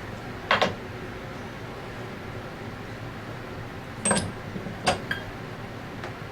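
Light metallic clinks and knocks of metal assembly fixtures and compressor parts being handled and set down: one about half a second in, then a small cluster about four to five seconds in, over a steady background hum.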